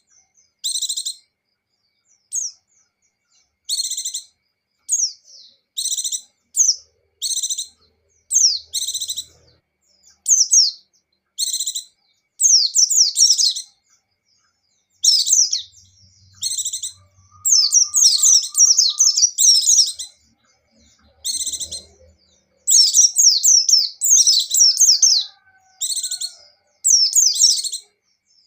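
White-eye (pleci) singing in short bursts of rapid, high twittering chirps with brief pauses between phrases; the phrases grow longer and busier about halfway through.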